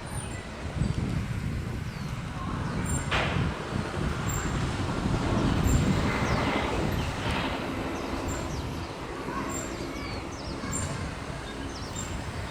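Train running on the rails: a steady low rumble, with a sharp clack about three seconds in and a louder stretch about halfway through.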